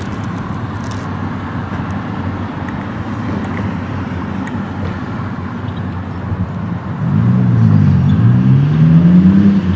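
Road traffic running steadily, then about seven seconds in a car engine grows louder and rises and falls in pitch as it accelerates past.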